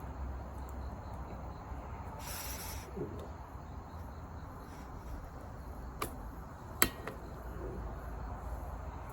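Campfire burning with a low steady rumble, a short hiss a little over two seconds in, and two sharp pops of burning wood about six and seven seconds in, the second the louder.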